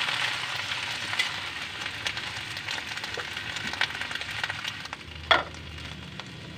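Chopped pechay (bok choy) leaves sizzling in hot oil in a wok, stirred with a spatula with small scraping clicks; the sizzle fades, and a single sharp knock sounds about five seconds in.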